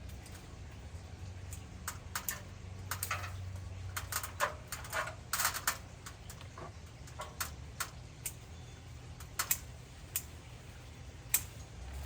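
Irregular run of sharp snips and snaps from twigs and small branches being cut by hand, thickest in the middle and trailing off into a few isolated clicks near the end.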